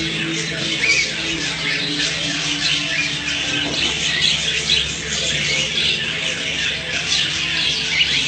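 A flock of small caged birds chirping and squawking continuously, many calls overlapping, over a faint steady low hum.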